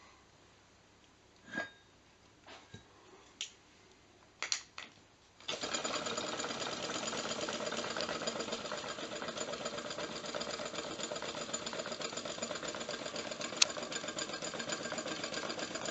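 A few scattered clicks, then, about five seconds in, a flywheel-less Stirling engine starts running with a steady, rapid mechanical clatter.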